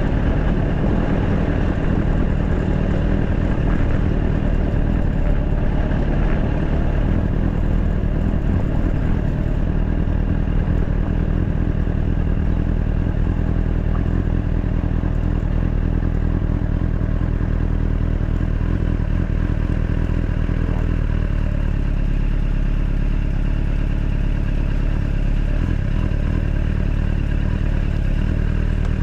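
Honda Fireblade motorcycle's inline-four engine running steadily, a continuous even drone with no sharp revving.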